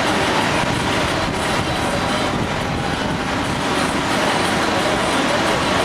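Steady, loud vehicle noise: a continuous rumble and hiss that neither rises nor falls.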